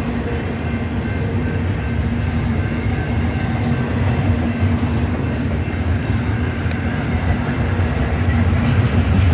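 Union Pacific freight train rolling past, a loud steady rumble of cars on the rails with a few faint steady tones over it.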